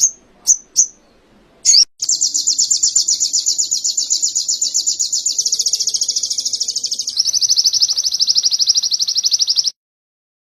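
A sogon (sogok ontong) songbird singing canary-style song: a few short, high chirps, then a long, fast, even trill that steps slightly lower in pitch partway through and stops abruptly.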